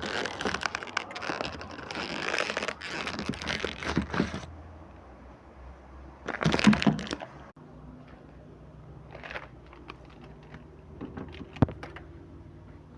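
Crinkling and crunching of food packaging being handled, dense for about four and a half seconds, then a shorter burst about six and a half seconds in and a single sharp click near the end.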